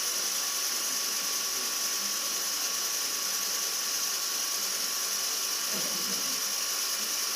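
Steady mechanical whirring and hiss from a spinning single-blade helicopter rotor rig, running at a constant speed.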